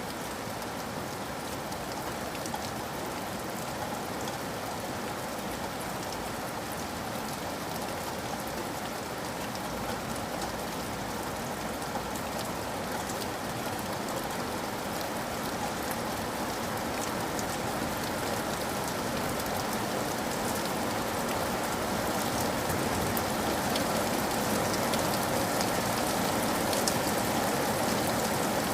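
Steady rain falling, with individual drops tapping, growing gradually louder.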